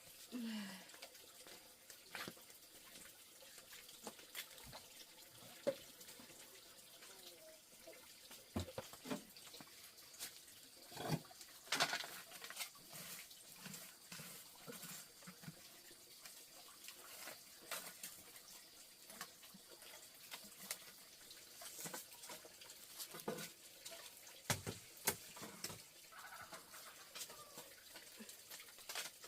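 Faint water sounds, like water running or being splashed, with scattered light knocks and clicks throughout.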